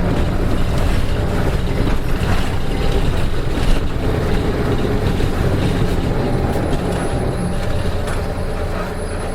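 Interior running sound of a Nissan Diesel KK-RM252GSN city bus under way, its diesel engine droning steadily with the abnormal engine noise this bus had developed. A single click about four seconds in, and the engine eases slightly near the end.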